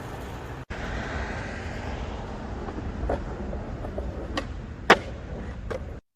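Skateboard wheels rolling over pavement with a steady rumble and a few sharp clacks, the loudest about five seconds in.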